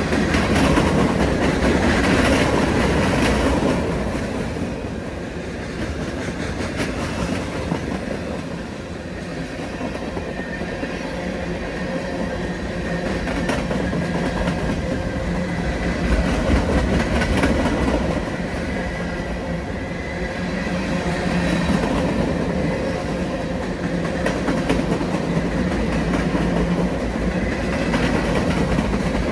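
A train passing on the track, its railcars rolling by in a continuous noise that swells and eases a little without stopping.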